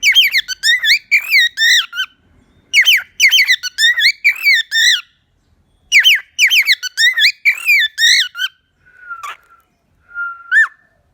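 Cockatiel chirping and whistling: three rapid bouts of short, bending notes, then two or three softer single whistles near the end.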